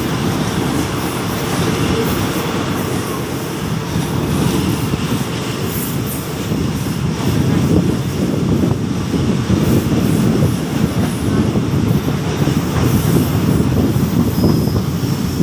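Passenger train running along the line, heard from on board: a steady, deep rumble of wheels on rail that grows a little louder about halfway through.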